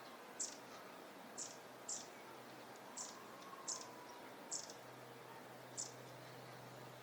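Long-tailed tits giving short, high, thin contact calls: about seven separate notes, spaced irregularly.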